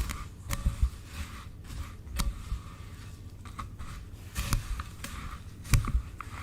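Slime and plastic piping bags being handled and squeezed: irregular sharp clicks and crackles with soft low thumps.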